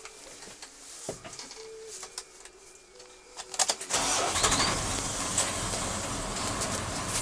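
A Mitsubishi Fighter's 6D17 inline-six diesel engine is started: a few clicks, then about four seconds in the engine catches and settles into a steady idle.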